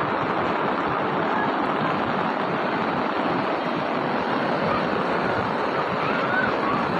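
Steady rushing of a swollen river in flash flood, a dense, even roar of fast muddy water.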